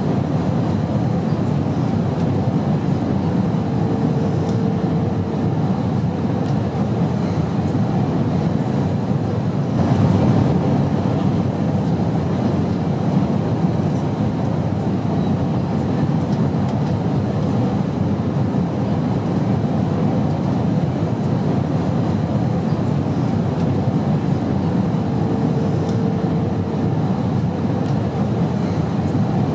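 Airplane noise as a steady low rumbling drone, even throughout, with a faint brief hum twice.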